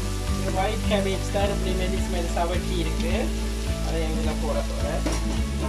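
Carrots and onions sizzling as they stir-fry in oil in a wok, with a metal spatula scraping and clicking against the pan, over background music.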